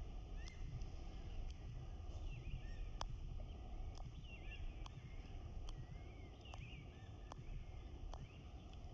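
Small birds chirping in short, rising-and-falling calls over a steady low outdoor rumble, with a sharp tick sounding about once a second.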